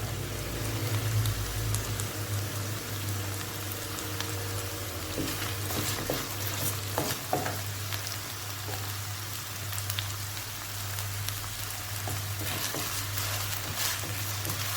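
Onion and leaves frying in hot oil in a pan, a steady sizzle with occasional small clicks, over a steady low hum.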